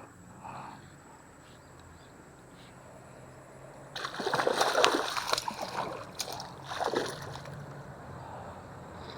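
Water splashing at the surface, plausibly a snakehead (haruan) thrashing on a topwater lure: a loud splashing burst about four seconds in and a shorter splash about a second later.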